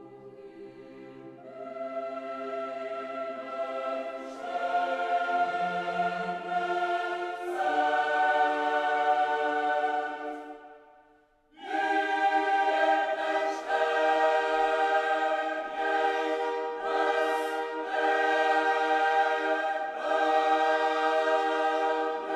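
Choir singing long held chords that build in loudness step by step, break off briefly about eleven seconds in, then come back in full and hold.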